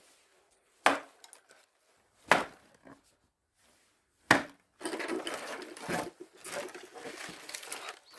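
Axe blows splitting firewood: three sharp strikes roughly one and a half to two seconds apart. From about halfway on, a continuous irregular rustling and clatter.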